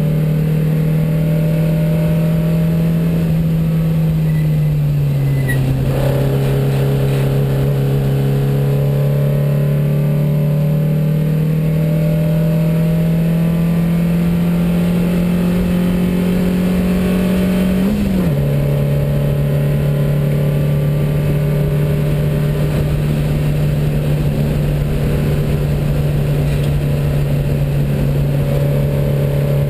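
The 2270cc flat-four engine of a 1972 Porsche 914 race car, heard from inside the cabin while it runs hard on track. The revs ease off a few seconds in, then climb slowly for about twelve seconds. About two-thirds through the pitch flicks up and drops sharply in a quick upshift, and after that the engine holds a steady note.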